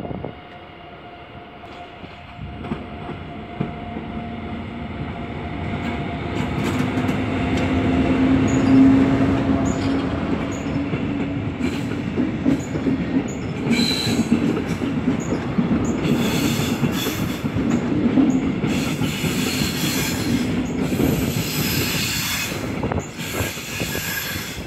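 DB class 146 electric locomotive hauling double-deck coaches passes close by over the points. The sound builds to its loudest about nine seconds in, then the coaches roll through with high-pitched wheel squeals that come and go.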